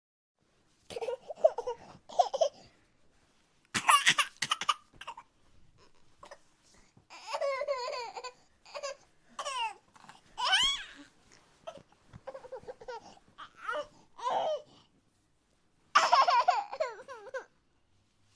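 A young child laughing and babbling in about six short bursts, with pauses between them.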